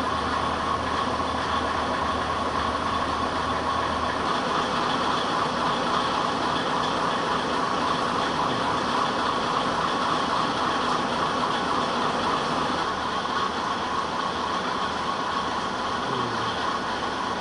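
Steady running of a KiHa 58 diesel railcar's DMH17H horizontal eight-cylinder diesel engine, echoing around a station; a low hum underneath eases off about four seconds in.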